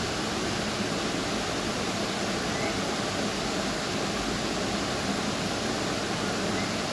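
Tropical waterfall's steady rushing water, with two faint short bird chirps, one about two and a half seconds in and one near the end.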